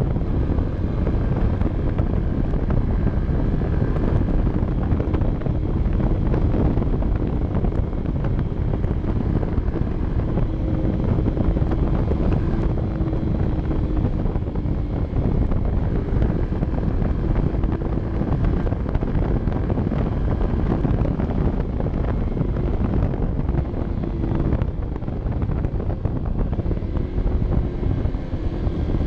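Honda CB 125 F's small single-cylinder four-stroke engine running under way, its pitch drifting up and down a little. Heavy wind buffeting on the microphone runs over it.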